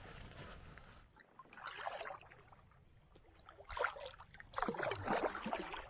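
A steady hiss cuts off about a second in. Then a canoe paddle dips and pulls through the water in three splashy strokes.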